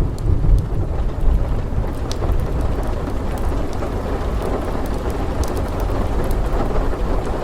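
Steady heavy rain with a low rolling thunder rumble that is strongest in the first second or so, and scattered sharp crackles over the top.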